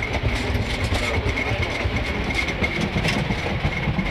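Narrow-gauge passenger train rolling along the track, heard from an open car: a steady rumble of wheels on rail with a thin, steady high tone over it.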